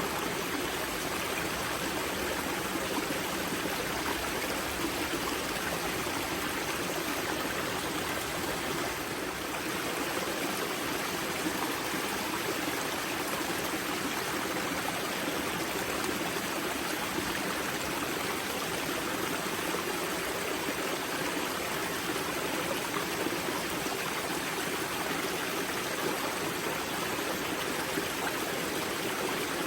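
Mountain river water rushing and splashing steadily over rocks at its spring, an even, unbroken sound.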